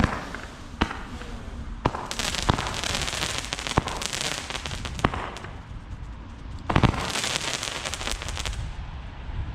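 New Year's Eve fireworks going off: a string of sharp bangs, with two long spells of dense crackling, one from about two to five seconds in and one from about seven to eight and a half seconds in.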